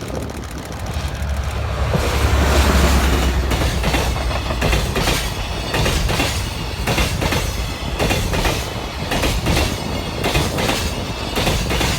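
A DE10 diesel locomotive passes close by with a heavy low engine rumble, then a train of loaded container wagons follows, its wheels clacking over the rail joints in a steady repeating rhythm.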